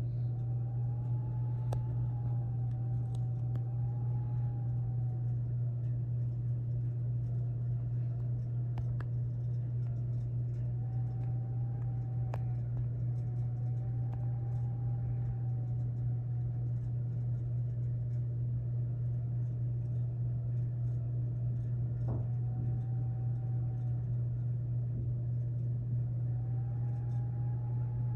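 A loud steady low hum, with a faint whistle over it that rises and falls in pitch in slow swells every few seconds, typical of blizzard wind whistling around a building. A few faint clicks.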